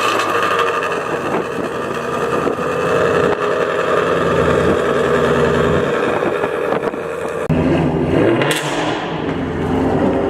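Car engine running steadily, with a rev that dips and rises in pitch about eight seconds in.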